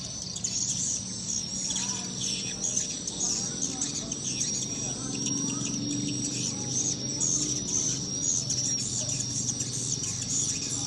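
Swiftlets twittering in dense, rapid high chirps, over a steady high-pitched tone.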